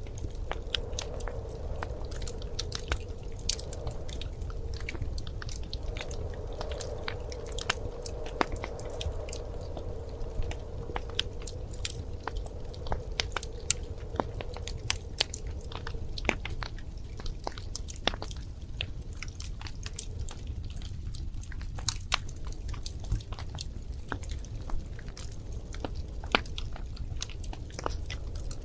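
Wood fire crackling in a fireplace: frequent, irregular sharp pops and snaps over a steady low rumble, with a faint hum in the first half that fades out around the middle.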